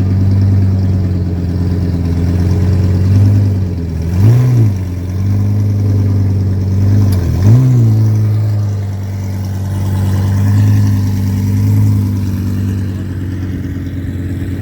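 Twin-turbo Lamborghini Huracan EVO's 5.2-litre V10 idling, with two short throttle blips about three seconds apart.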